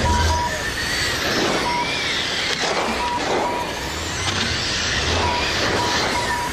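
Radio-controlled race cars running laps, their motors whining up and down in pitch as they accelerate and brake, with tire noise. A short steady beep sounds several times.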